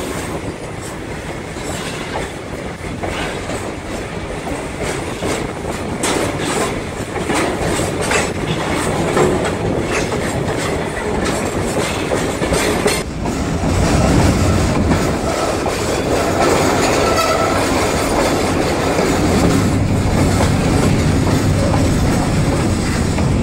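Railroad car rolling along the track, heard from its open rear platform: wheels clacking over rail joints with a continuous rattling rumble, growing somewhat louder about halfway through.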